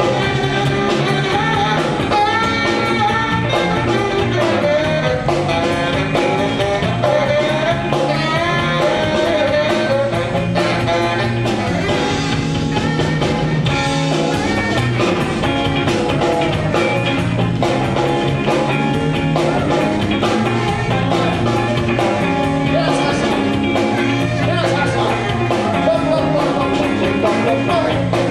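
A live band playing a number, with guitar and a steady bass line at an even, loud level.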